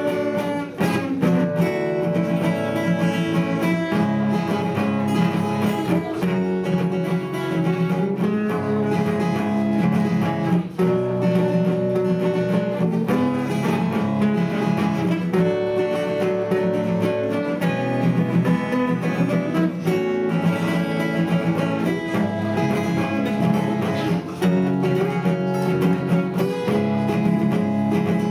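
Acoustic guitar music playing a song, plucked and strummed, running without a break.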